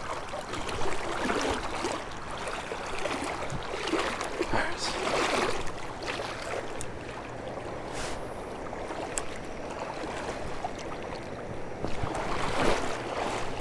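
Creek water flowing and splashing over rocks, a steady rushing with a few louder swells.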